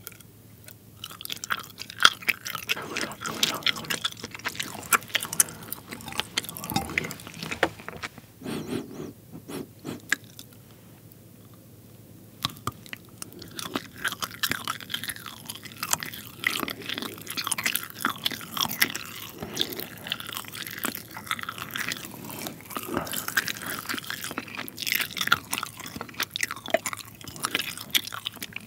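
Close-miked chewing and biting of soft rainbow-coloured pull-apart cheese: a dense run of small mouth clicks and smacks, easing off briefly about ten seconds in before picking up again.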